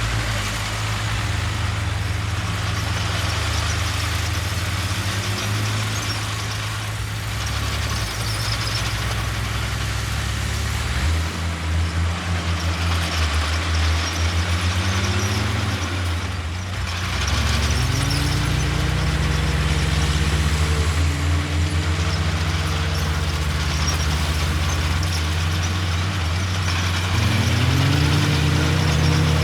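Heavy diesel engine of an earthmoving machine running under load, its revs rising and falling several times in the second half.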